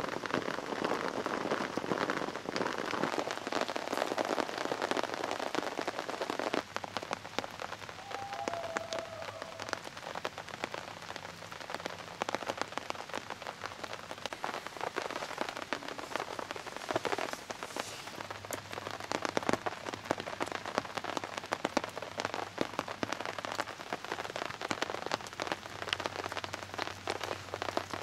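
Steady rain falling, with the tap of many separate drops. It is heaviest in the first few seconds.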